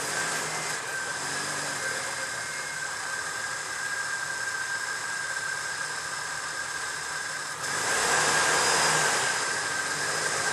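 Jeep Wrangler engine running under load as the Jeep crawls over a tree stump off-road, getting louder about three-quarters of the way through.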